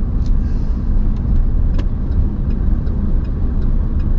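Car driving slowly as it pulls in to park, a steady low rumble with a few faint clicks over it.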